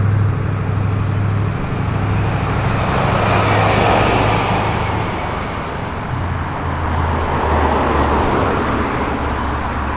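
Car engine running at low speed with a deep, steady rumble, swelling louder about four seconds in and again near eight seconds in.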